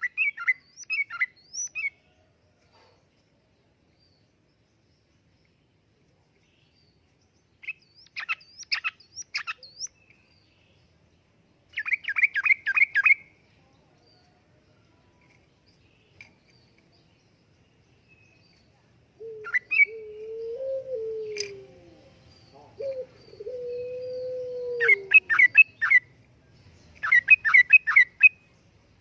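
Yellow-vented bulbul singing: short bursts of quick, bubbling chirps, six phrases with pauses between them. In the second half a lower, drawn-out tone rises and falls twice beneath the song.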